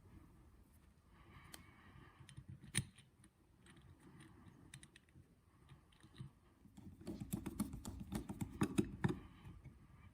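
Small metal carburetor parts being handled and fitted by hand, making light scattered clicks and taps, one sharper click about three seconds in and a flurry of rapid clicking from about seven seconds in.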